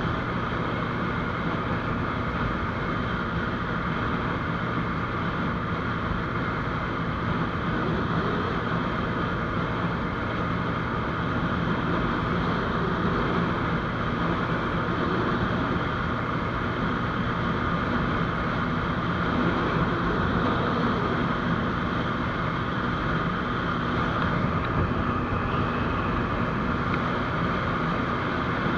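GPX GR200R motorcycle cruising at a steady speed: its single-cylinder engine runs evenly under a constant rush of wind and road noise.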